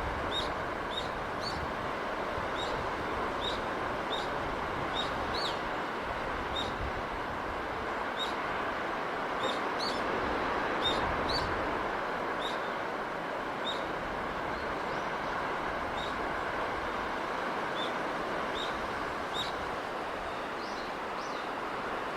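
Steady rushing of sea wind and surf, with a small bird giving repeated short, high chirps through most of it, thinning out near the end.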